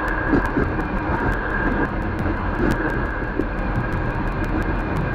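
Train running along the track at speed: a steady rumble of wheels on rails with a rapid patter of light clicks over it.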